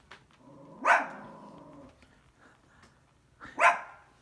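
A small dog, a Biewer Yorkie, barks twice, a sharp bark about a second in and another near the end. The barking is wary, aimed at a basset-hound-shaped pillow that the dog takes for a strange dog.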